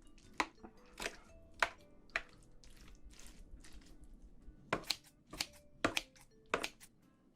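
An eating utensil clicking and scraping against a bowl in an irregular string of short, sharp taps, as rice is mixed into the sauce of a spicy braised seafood dish.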